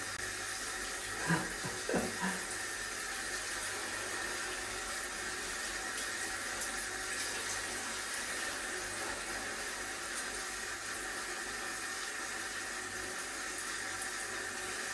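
Water running steadily from a shower or spray, an even rushing hiss. A few brief louder sounds break in about one and two seconds in.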